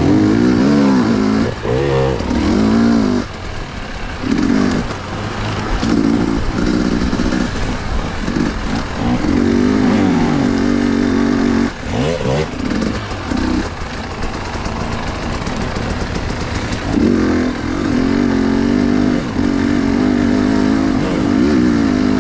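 Husqvarna TE 250i two-stroke single-cylinder enduro motorcycle engine under way, revving up and down again and again as the throttle is opened and closed, with a few steadier stretches held at higher revs.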